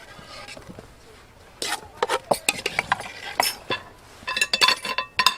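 Cutlery and dishes clinking: spoons, plates and cups knocked together in a run of sharp clinks starting about a second and a half in, a few ringing briefly near the end.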